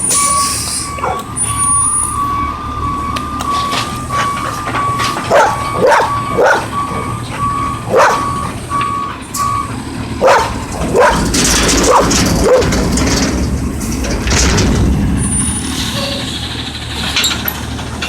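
Autocar ACX garbage truck with a Heil body: its backup alarm beeps steadily over the engine and stops a little past halfway. A dog barks several times in the middle, and the truck's air brakes hiss near the end.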